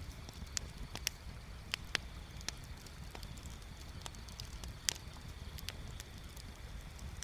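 Wood bonfire crackling: irregular sharp pops and snaps, a few louder than the rest, over a steady low rumble.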